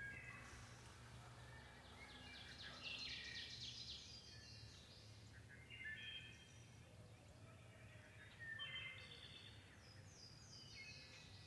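Faint songbirds singing in the woods: several separate songs and chirps, with a fast trill about three seconds in and more short phrases later on.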